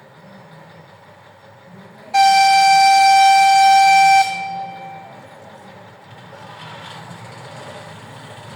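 TU10 narrow-gauge diesel locomotive sounding its horn: one loud, steady blast of about two seconds that cuts off sharply, over the low running of the engine, the signal for the train's departure.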